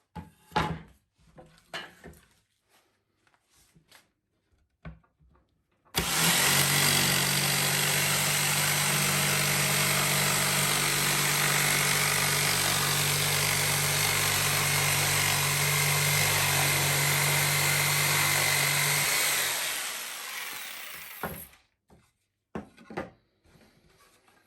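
A few light wooden knocks and handling sounds. Then an electric woodworking power tool switches on abruptly and runs at a steady pitch with a low motor hum for about thirteen seconds, before spinning down over a couple of seconds.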